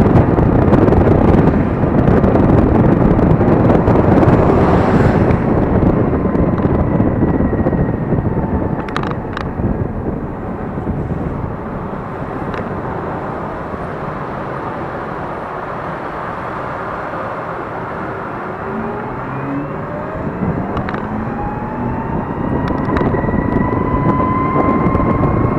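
Wind and road noise on a moving electric scooter, loud at first and dying down for a while as it slows. Then a rising electric-motor whine as the scooter pulls away and speeds up over the last several seconds.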